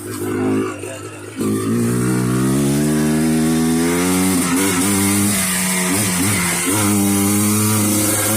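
A 1994 Yamaha Blaster's single-cylinder two-stroke engine, breathing through an FMF Fatty expansion chamber and PowerCore 2 silencer. It runs low, then gets suddenly louder about a second and a half in. Its pitch climbs for a couple of seconds and then holds high, with a few quick dips as the throttle is blipped.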